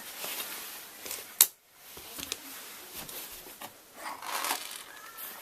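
Small metal parts and hand tools being handled on a workbench: a single sharp click about a second and a half in, then rustling and light clatter about four seconds in.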